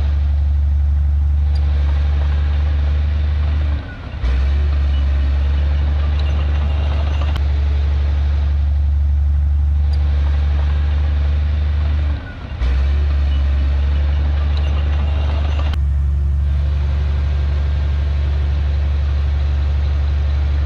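Heavy diesel engine of earthmoving machinery running steadily with a loud low drone, briefly dropping away twice, about four seconds in and again about twelve seconds in.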